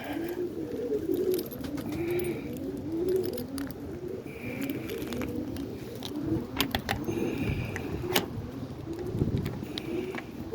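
Roller pigeons cooing, several low coos overlapping one after another without a break, with scattered sharp clicks and taps among them.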